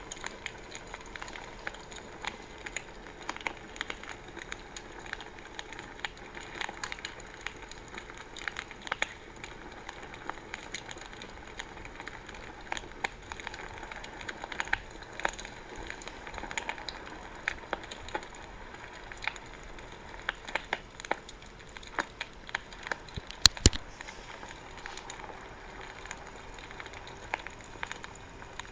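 Wood bonfire crackling: frequent small pops and snaps over a steady low hiss, with a sharper double crack about two-thirds of the way through.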